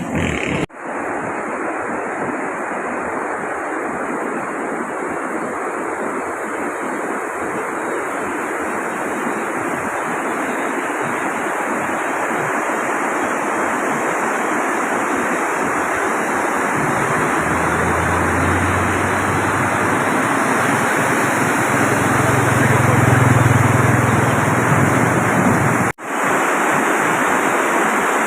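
Steady rushing of fast-flowing water, a continuous even roar. A low rumble joins in for several seconds near the end, and the sound drops out briefly twice at edit points.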